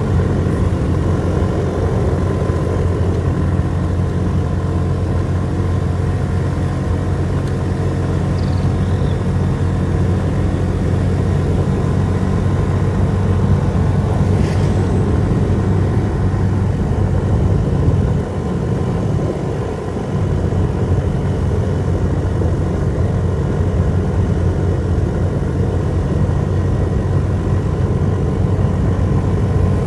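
Motorbike engine running steadily during a ride, with a brief dip in loudness about eighteen seconds in.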